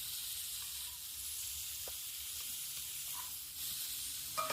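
A stir fry of chicken and rice sizzling steadily in a hot pan.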